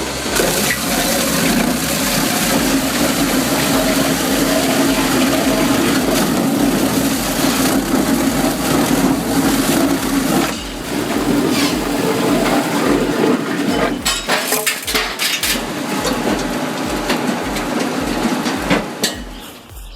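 Cambio ring debarker running, a loud steady mechanical hum with logs grinding through the rotor; it drops briefly about halfway, then turns into a run of sharp knocks and cracks as the wood is stripped.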